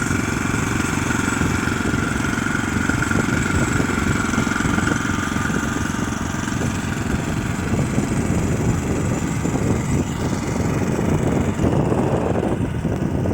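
Engine of a Neva MB23 walk-behind tractor running steadily.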